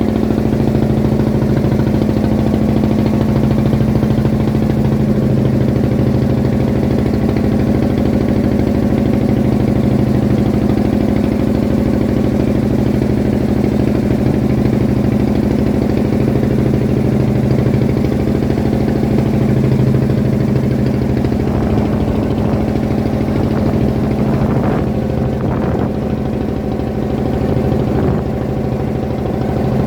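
A fishing boat's engine running steadily at a constant pitch.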